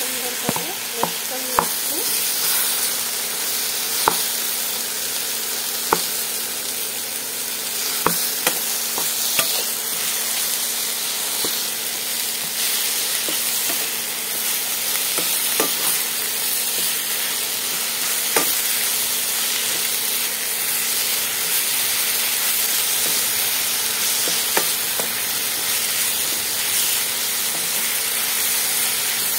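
Olive and apple chutney sizzling in a non-stick pan as a wooden spatula stirs it, with a steady frying hiss and about a dozen irregular sharp knocks of the spatula against the pan.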